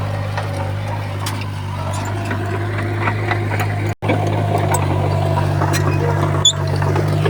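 Komatsu D20P bulldozer's diesel engine running steadily under work, with scattered clicks and clanks over it. The sound cuts out for an instant about four seconds in.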